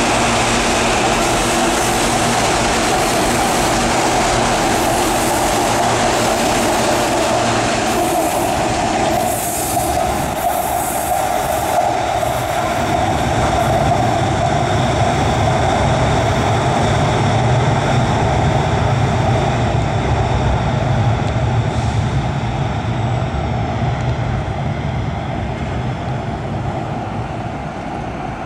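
CPTM Série 8500 electric train running through the station and away toward a tunnel: a loud, continuous rail rumble with steady high tones from about ten seconds in, easing off over the last few seconds.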